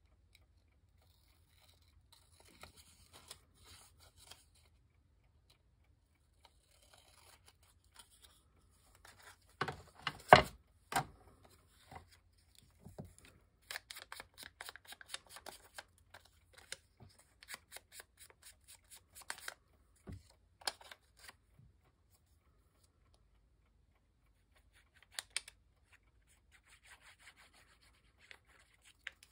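Paper being handled and cut: intermittent rustling and snipping, with a few sharp knocks about ten seconds in that are the loudest sounds.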